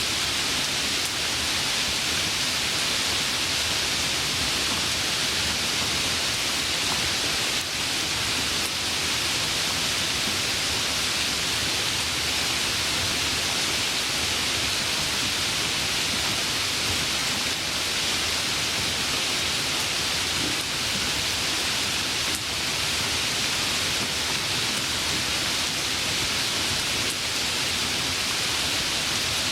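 Steady, even rain with a bright hiss and no individual drops or thunder standing out.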